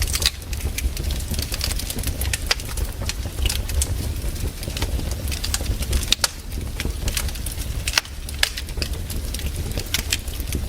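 Wood campfire burning, crackling with irregular sharp pops over a steady low rumble of the flames, with a few louder snaps about six and eight seconds in.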